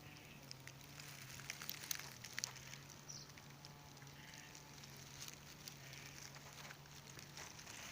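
Faint outdoor nature ambience: a low steady hum under scattered ticks and crackles, with faint distant animal calls.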